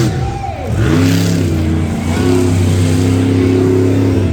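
Monster truck engine revving: its pitch drops away sharply at the start, climbs back up about a second in, and then holds high and steady under throttle.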